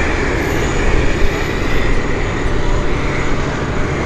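Jet airliner engines running at high power, a loud, steady rush of noise with a faint high whine over it.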